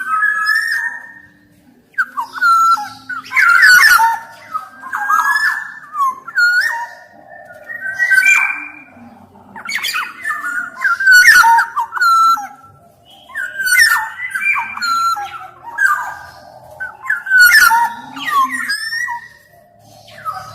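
Black-naped oriole (kepodang emas) singing, with loud phrases of gliding whistled notes repeated about every two seconds.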